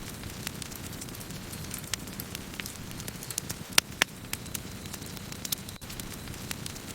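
Wood fire burning: a steady low rush of flames with frequent sharp crackles and pops of burning wood, two louder pops close together about four seconds in.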